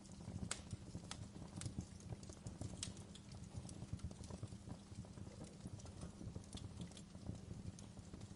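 Wood fire burning in a fireplace, the logs crackling with many irregular sharp pops over a steady low rumble of the flames.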